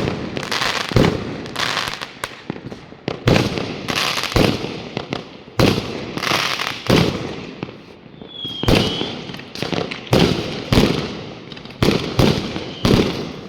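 Fireworks going off close by in rapid, irregular succession: many sharp bangs, each followed by an echoing tail. A short high whistle cuts through about eight and a half seconds in.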